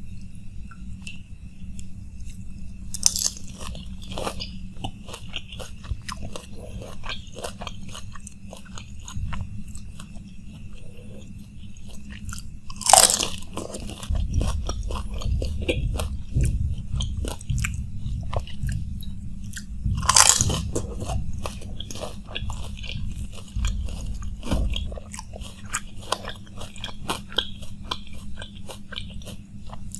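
Crunching and chewing of panipuri (fuchka): crisp hollow puri shells filled with spiced water, bitten and chewed in a steady run of crackles, with three louder crunches about 3, 13 and 20 seconds in.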